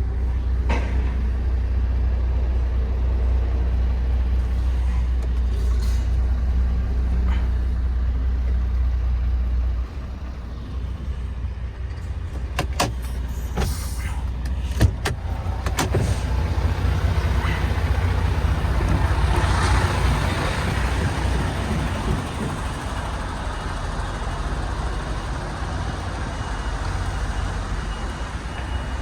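MAN TGX 18.510 truck's inline-six diesel engine running with a steady low rumble that drops about ten seconds in. A few clicks and one sharp knock follow, then a rushing noise swells and fades.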